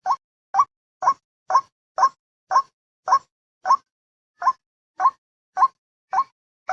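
White-breasted waterhen lure call: a short, rising note repeated about twice a second, with one slightly longer pause a little past halfway.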